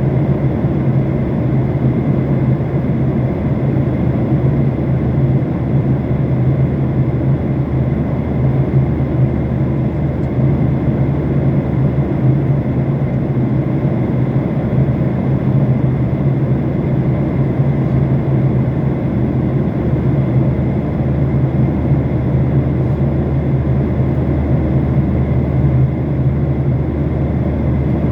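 Steady cabin noise of an airliner in flight: a loud, even low hum from the engines under a rushing hiss of airflow.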